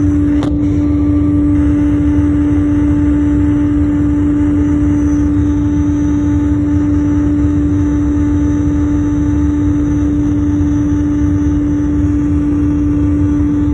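Airliner engine noise heard inside the passenger cabin: a loud, steady drone with a strong hum and a low rumble. A single sharp click comes about half a second in.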